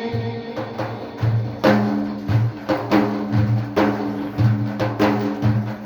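Frame drums beaten by hand in a steady rhythm of deep strokes, about two to three a second, with a low ringing tone underneath, carrying the beat while the singing pauses.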